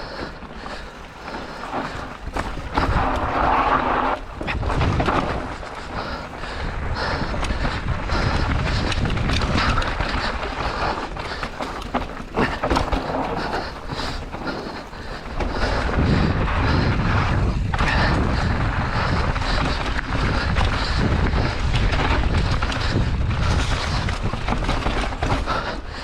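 Mountain bike ridden fast down a rough dirt trail: wind buffeting the camera microphone as a steady low rumble, with tyre noise and frequent knocks and rattles from the bike hitting bumps.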